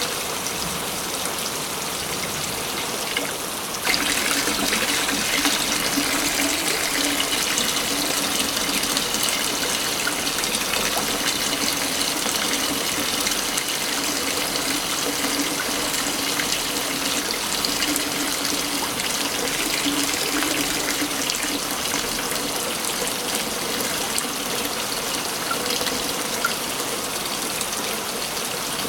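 Waterfall in a forest, a steady rush of falling water that gets louder and brighter about four seconds in.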